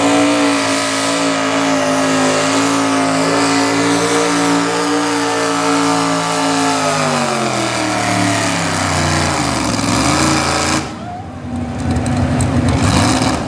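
A super stock two-wheel-drive pulling truck's engine at full throttle, held at high revs for about seven seconds while it pulls the sled. The revs then fall away as it lets off. About a second later the sound changes abruptly to a rougher, noisier rumble without a clear engine pitch.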